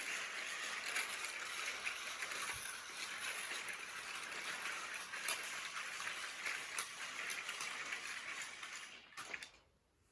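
Battery-powered Trackmaster toy train running: a steady motor whirr with wheels clicking and rattling on plastic track. The sound stops fairly suddenly after a couple of sharper clicks near the end.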